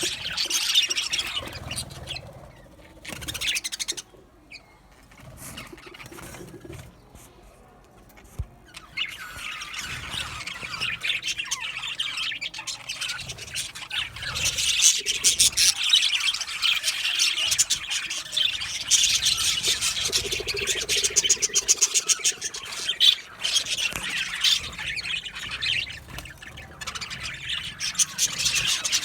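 A flock of budgerigars chattering and chirping, many birds at once. The chatter dies down for a few seconds about four seconds in, then picks up again and keeps going busily.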